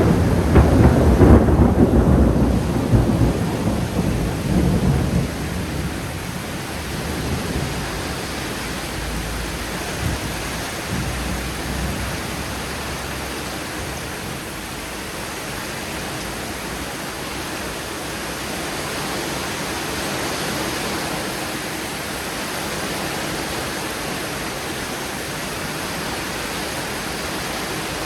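A thunderclap breaks right at the start and rumbles away over about five seconds, with a few fainter rumbles after it, over steady rain.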